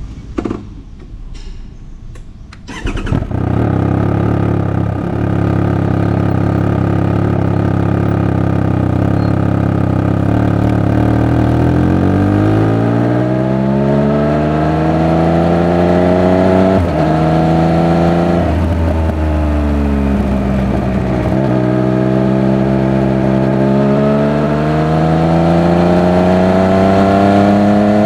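Triumph Speed Triple 1200 RR's three-cylinder engine is started after a few faint clicks about three seconds in, then idles. From about twelve seconds in the engine note climbs steadily in pitch, drops back a little past halfway, and climbs again as the bike accelerates.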